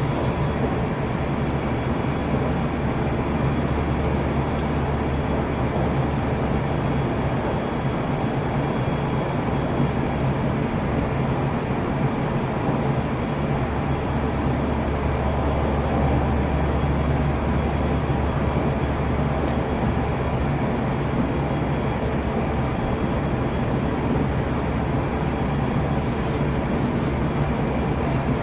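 JR Central 373 series electric train heard from inside the car, running at speed: a steady rumble of wheels on rails with a few faint steady tones.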